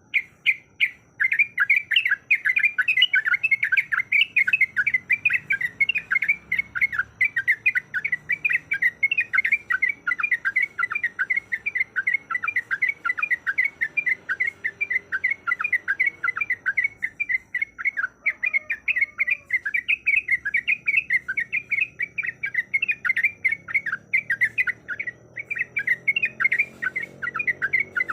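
Yellow-vented bulbul (trucuk) singing a long unbroken 'ropel' run of quick repeated chattering notes, about six a second, with a brief pause near the end: the insistent call used to challenge a rival.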